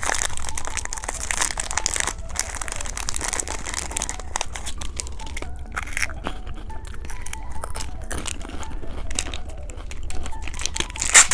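Plastic candy wrappers crinkling as the packaging is handled and torn open, with a louder crinkle near the end.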